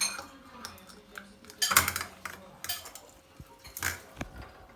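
Scattered clinks and clatters of small hard objects like cutlery or dishes, with two louder knocks about two seconds and four seconds in.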